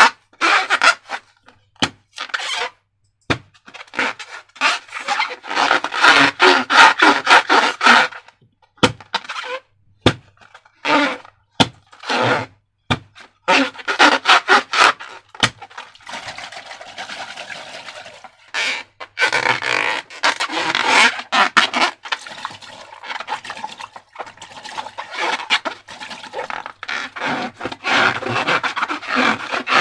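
Slime being mixed and squished by hand: repeated short bursts of wet crackling and sticky clicking, with a steadier hiss for a few seconds in the middle.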